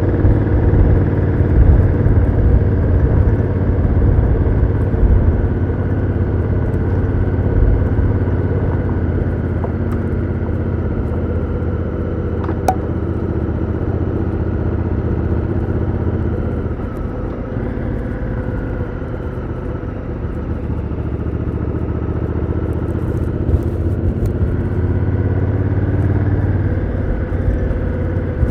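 Honda Africa Twin CRF1000L's parallel-twin engine running through its stock exhaust, heard from onboard the moving motorcycle. It holds a fairly steady pace, eases off for a few seconds about two thirds of the way through, then picks up again near the end, with one brief sharp click in the middle.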